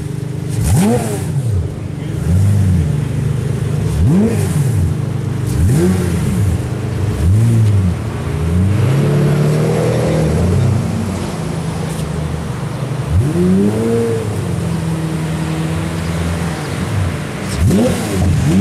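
Pagani Zonda F Roadster's AMG V12 being blipped, with quick revs rising and falling back to a steady idle every second or two and one longer rev about halfway through.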